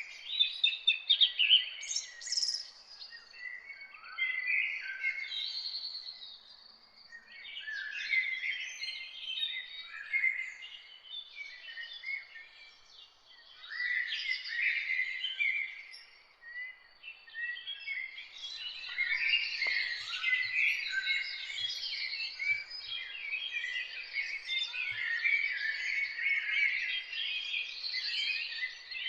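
Several songbirds singing and chirping together in a dense, overlapping chorus of quick high chirps and trills, thinning briefly at times and fullest in the second half.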